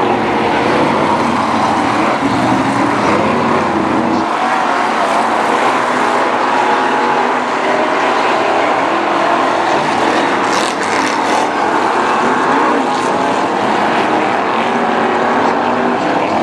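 Several BriSCA F1 stock cars' V8 engines running together on the track, a dense, steady, loud engine noise with pitches wavering as the cars lap. A brief cluster of sharp clatters comes about ten to eleven seconds in.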